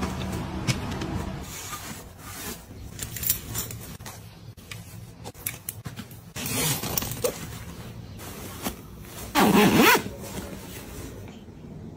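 Small household items and containers being handled, set down and slid into place: scattered clicks, taps and scrapes, with a louder squeaky rub lasting about half a second near the end.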